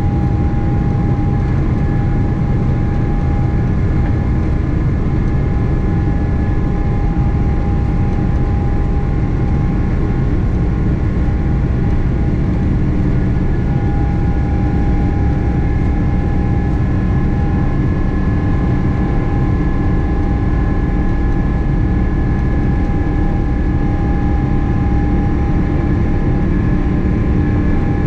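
Cabin noise inside a Boeing 777-300 airliner: a steady low rumble of the jet engines and airflow with several steady whining tones over it.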